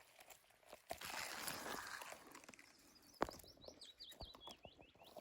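Rustling for about a second, a single sharp click or snap about three seconds in, then a small songbird singing a quick run of short slurred notes near the end.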